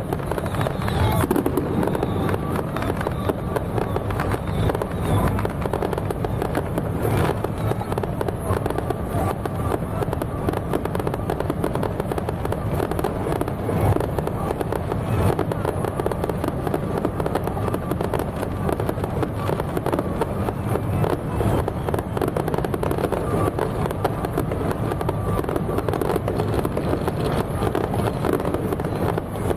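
Fireworks going off in a dense, continuous run of bangs and crackles, with no break.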